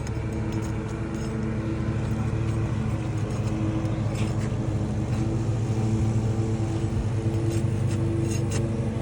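A motor running steadily with a low, even hum, with a few faint clicks about four seconds in and near the end.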